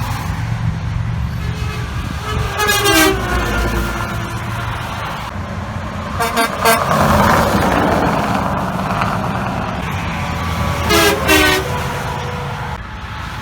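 Semi trucks passing on a highway and sounding their horns over steady traffic rumble. A blast about two and a half seconds in drops in pitch as the truck goes by. A pair of short toots comes around six seconds, and two more short blasts come near eleven seconds.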